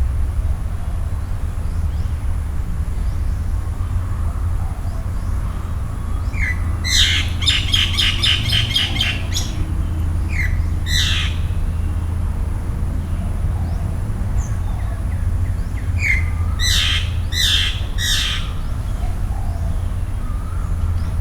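Birds calling over a steady low rumble: a quick run of repeated notes, about five a second, a third of the way in, then a couple of single calls, and three or four loud separate calls a little past the middle.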